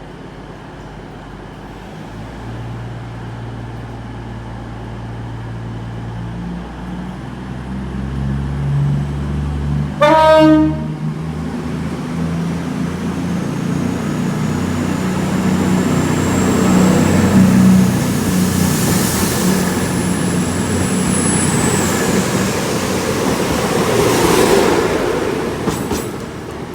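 A CrossCountry Class 220 Voyager diesel multiple unit pulls away, its underfloor diesel engines rising in pitch as it gathers speed. The driver gives one short horn blast about ten seconds in, the loudest moment.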